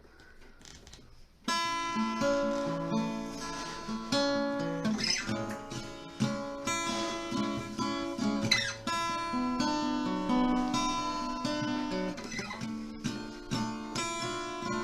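Acoustic guitar introduction, strummed and picked chords starting suddenly about a second and a half in.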